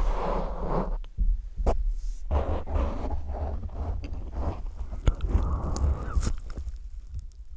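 Close-up wet mouth sounds on a microphone: licking with scattered sharp clicks and low thumps from contact with the mic.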